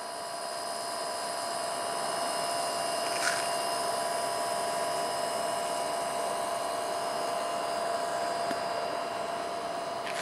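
Steady mechanical whine from a small motor, with several held tones over a hiss. Two short downward-sweeping chirps come about three seconds in and again near the end.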